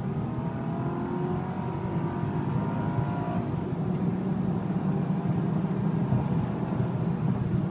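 Supercharged 5.5-litre AMG V8 of an LPG-converted Mercedes-Benz E-class estate under hard acceleration, heard from inside the cabin. The engine note rises for about three seconds and then turns into a steadier, rougher run.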